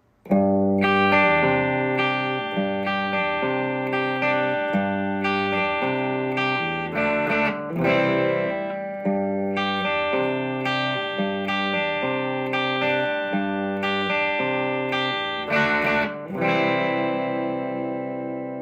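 Gretsch solid-body electric guitar played on its bridge pickup through an amp, picking a repeated chord pattern in a steady rhythm. Near the end it strikes a final chord and lets it ring out.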